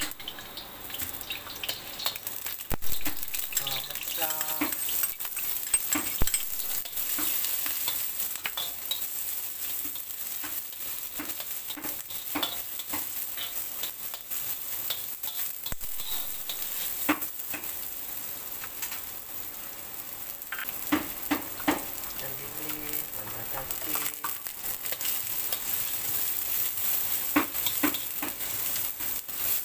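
Chopped onion frying in oil in a wok, a steady sizzle, with a metal spatula scraping and knocking against the wok as it is stirred.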